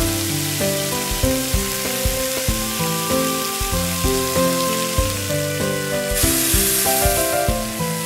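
Background music with melodic notes over a steady sizzling hiss, as of food frying in a pan. The hiss turns brighter for a second or so about six seconds in.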